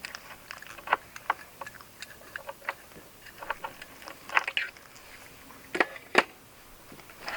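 Irregular light clicks and taps, with two sharper ones close together about six seconds in.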